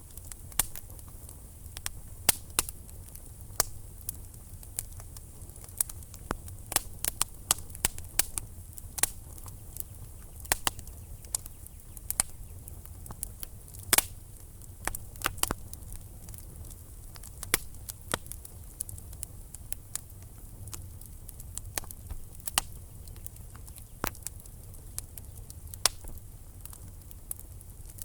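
Wood fire burning in a fireplace: logs crackling and popping in many sharp, irregular snaps over a low, steady rumble of the flames.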